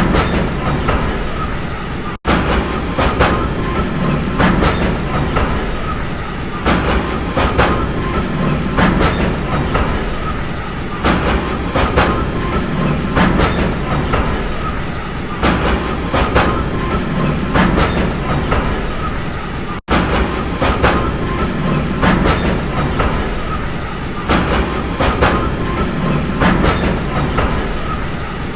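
A train running on rails: a steady rumble with a rhythmic clickety-clack of wheels over rail joints, the clicks often in pairs every second or so. The sound cuts out very briefly twice, about 2 seconds in and near 20 seconds.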